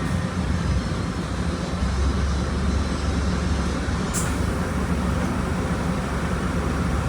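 Volkswagen Volksbus 17.230 Euro 6 bus engine running steadily, a low rumble, with a short tick about four seconds in.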